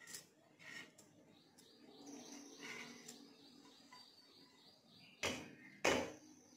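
Small birds chirping in a quick, evenly repeating pattern in the background, with two sharp knocks about five and six seconds in that are the loudest sounds.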